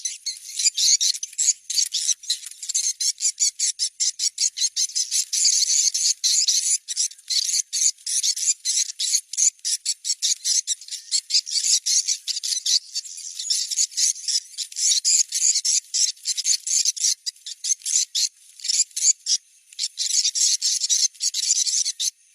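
Recorded swiftlet call sound, the lure played to check a site for a swiftlet house: a dense, rapid twittering chatter of many birds, with a faint steady high tone above it.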